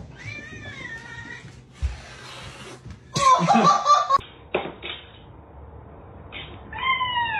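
Domestic cat meowing in separate calls: a drawn-out meow that rises and falls near the start, a louder, rougher cry about three seconds in, and a falling meow near the end.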